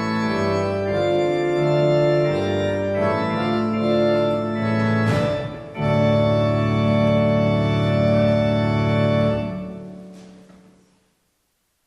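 Organ playing the final sustained chords of a prelude. The last chord is held for several seconds, then cut off about ten seconds in, with the sound dying away in the room's reverberation.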